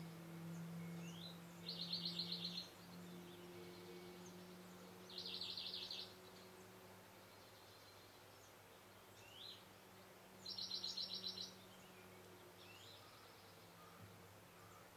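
A small bird's trill, a rapid run of high notes lasting about a second, sung three times a few seconds apart, with short faint rising call notes between, over a faint low hum.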